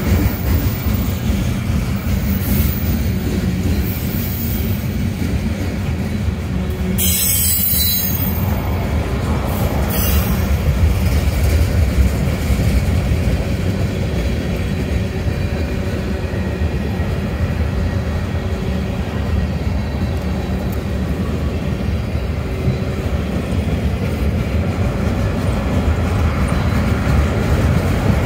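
Freight cars of a mixed freight train rolling steadily past, their steel wheels running on the rails with a continuous low noise. A brief high-pitched hiss comes about seven seconds in and again near ten seconds.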